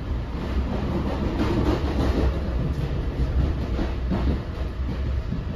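Inside a moving NJ Transit Bombardier MultiLevel passenger coach: the steady low rumble of the train under way, with the wheels clacking over rail joints a few times.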